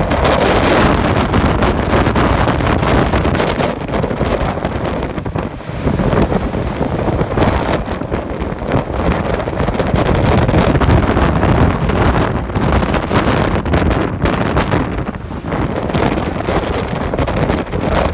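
Typhoon Jebi's winds hitting the microphone: loud, rushing wind noise that surges and eases in gusts.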